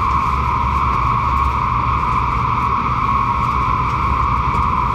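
Shinkansen train running at speed, heard from inside the passenger car: a steady rumble with an even rushing hiss.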